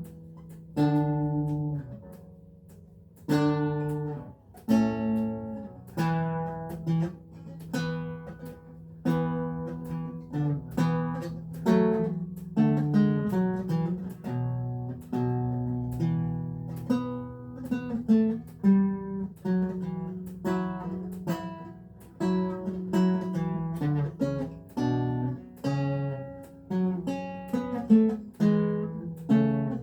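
Renaissance lute played solo: plucked chords and running melody notes over a bass line, each note struck crisply and then decaying. There is a short pause about two seconds in, and the playing then carries on at a steady pace.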